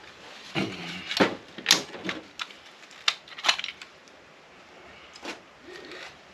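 Small metal parts and hand tools clicking and clinking as an electronic unit is taken apart for scrap: a quick run of sharp knocks in the first half, then a few fainter clicks.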